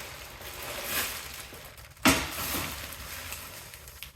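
Handling noises from unpacking equipment parts: rustling, with a sharp knock about two seconds in that fades away.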